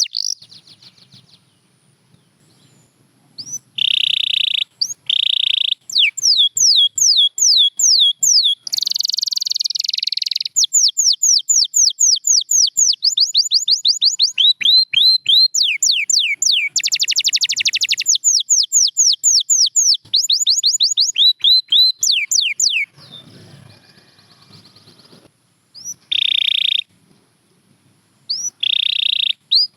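Domestic canary singing: phrases of fast repeated falling whistled notes and buzzy trills, with short pauses a couple of seconds in and again about 23 seconds in.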